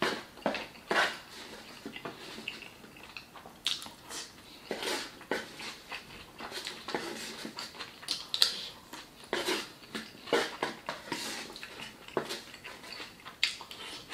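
Close-miked, open-mouthed wet chewing and lip smacking on a mouthful of carne asada burrito, in irregular smacks throughout.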